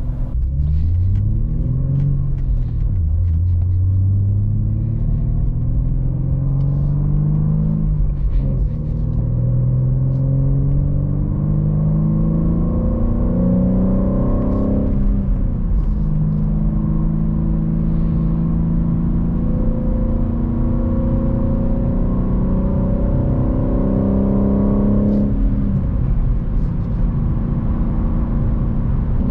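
BMW G80 M3's twin-turbo straight-six heard from inside the cabin, accelerating through the gears: the engine pitch climbs, drops at upshifts about 2, 8, 15 and 25 seconds in, then climbs again. Part of the engine note in the cabin is synthetic sound played through the car's speakers.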